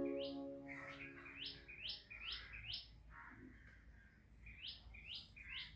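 A small bird chirping: short, sharp, high calls repeated in a quick run of four or five, then, after a pause, a run of three. Soft ambient music fades out under the first calls.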